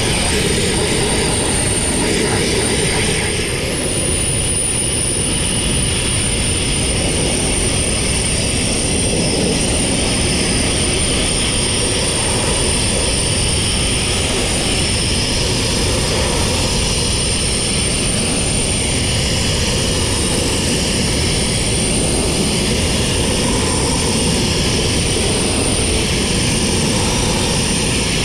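Steady, loud rushing noise of the sandblasting rig running, with a thin high whistle over it that steps up slightly in pitch about four seconds in.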